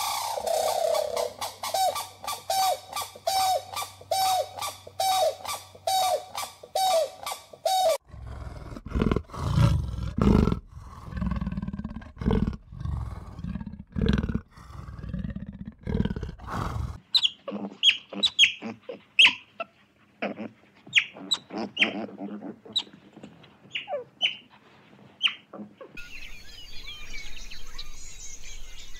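A run of animal calls. A bird calls over and over, a little under two calls a second, for the first few seconds. Then come low, rough, growling calls, then short high chirps, and near the end a steady outdoor hiss with faint twittering.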